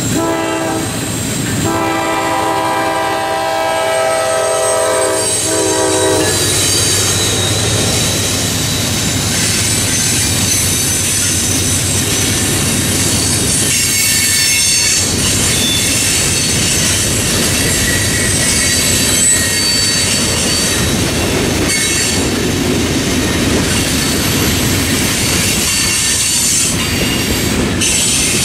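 Freight train at a grade crossing. The lead GE AC44C6M locomotive's horn sounds in blasts, the last ending about six seconds in. Then the train rolls past with steady wheel-on-rail noise, clatter and high-pitched wheel squeal.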